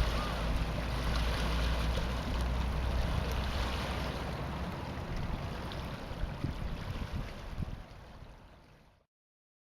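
Steady outdoor water ambience: a rush of moving water with wind rumbling on the microphone, fading out near the end.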